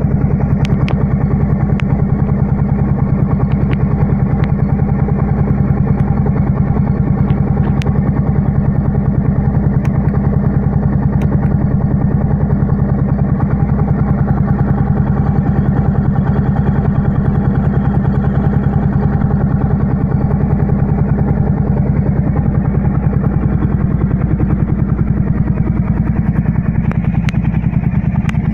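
Motorcycle engine running steadily at an even pitch with a fast, regular exhaust pulse, without revving.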